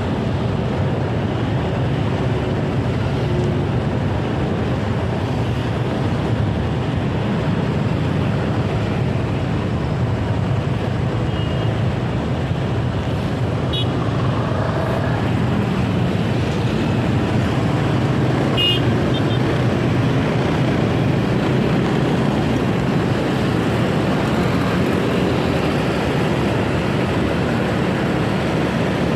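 Steady road and traffic noise from a moving motorcycle in city traffic. A couple of brief high chirps come through a little past the middle.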